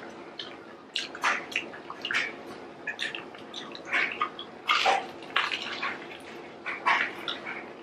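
People chewing and biting into garlic bread pizza close to the microphone: irregular wet smacking and mouth clicks, several a second at times.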